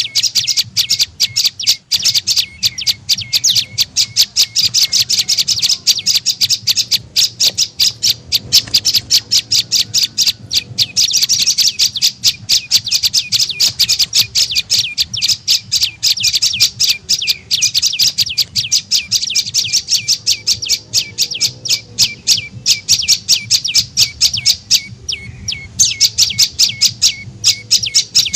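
Prenjak lumut calling in a rapid, unbroken string of sharp, high chirps, several a second, with a short break about 25 seconds in. It is a lure (pikat) call used by bird catchers and keepers to draw the bird in.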